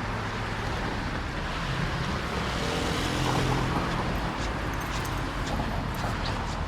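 A motor vehicle passing close by, its engine sound building to a peak about three seconds in and then fading, over a steady wash of city traffic noise. Short light ticks come in the second half.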